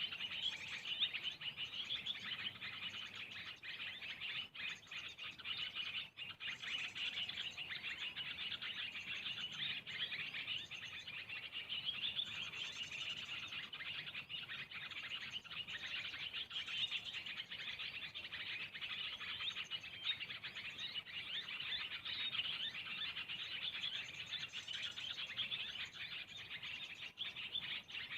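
Small birds chirping without a break in dense, overlapping chatter, with a short, higher-pitched call breaking through every few seconds.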